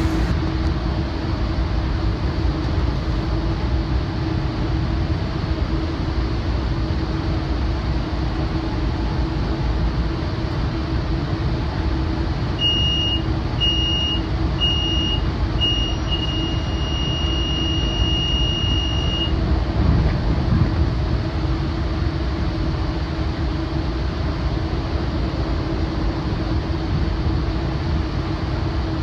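Steady rumble and hum of a Metrolink train under way, heard from inside the Rotem cab car rolling behind a BNSF GE AC4400CW locomotive. About halfway through, the cab car's alerter sounds: four short high beeps, then a continuous tone for about three seconds before it stops.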